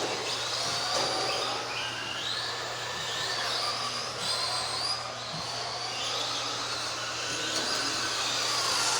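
Several electric RC racing trucks' motors whining at once, their pitches rising and falling as they speed up and slow down around the track.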